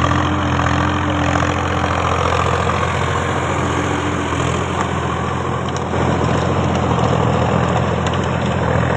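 Tractor engine running steadily, getting a little louder about six seconds in.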